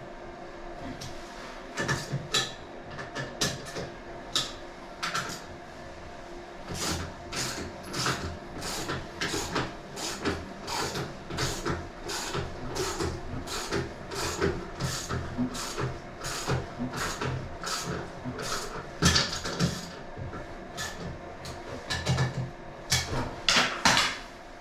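Rapid, irregular mechanical clicks and knocks, several a second, over a steady hum.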